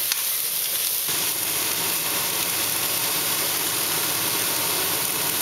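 Vegetables sizzling in oil in a hot wok, a steady hiss, with a steady low rumble joining about a second in.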